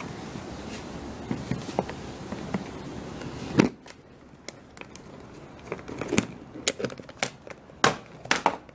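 Plastic IKEA Tokig salad spinner spinning wet cloth liners dry, a steady noise that stops with a sharp clack about three and a half seconds in. Scattered plastic clicks and knocks follow as the spinner's lid and basket are handled.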